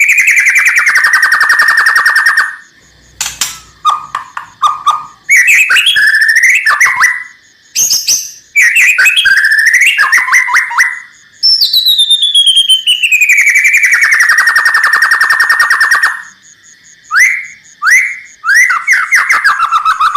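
White-rumped shama (murai batu) singing: a long rattling trill of fast notes sliding down from high to lower pitch, then short chattering and whistled phrases, then a second falling rattle, and a few short rising notes near the end. The rattling trill is the shama's 'kretekan'.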